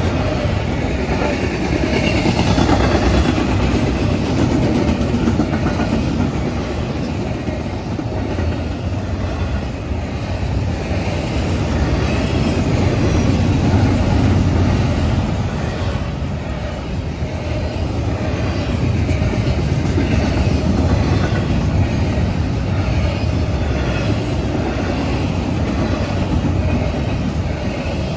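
Norfolk Southern intermodal freight train rolling past at a grade crossing: a steady loud rumble of wheels on rail with clickety-clack, swelling and easing as the cars go by.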